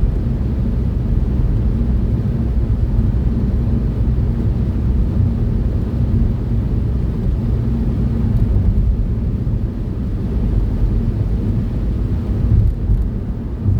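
Car cabin noise at motorway speed, about 60 mph: a steady low rumble of engine and tyres on the road.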